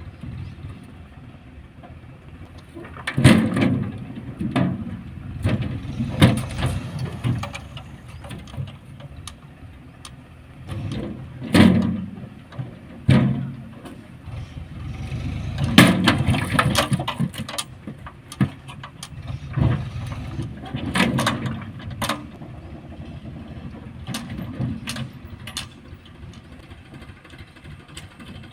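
Farmtrac 45 tractor's diesel engine running steadily while reversing with a trailer, broken by about ten sudden loud bangs and knocks at irregular intervals.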